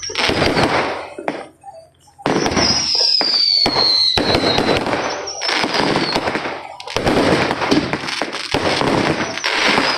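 Neighbourhood fireworks and firecrackers going off in rapid crackling, popping strings, with a short lull about two seconds in. Just after the lull a firework whistle sounds for about three seconds, falling slowly in pitch.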